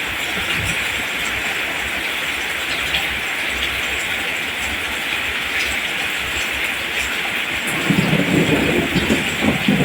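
Steady rain falling on rice plants, an even hiss. From about eight seconds in, irregular low thuds join it.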